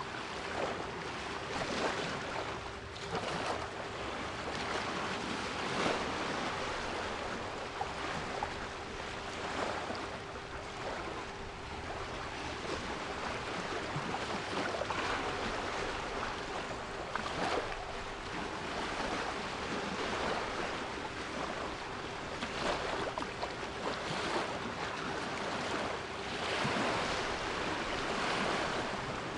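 Sea surf washing in as a continuous hiss that swells and eases, with a steady 396 Hz pure solfeggio tone held underneath.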